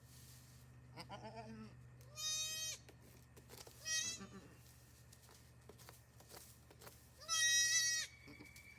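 Goat bleating: four separate bleats, the last one near the end the loudest and longest.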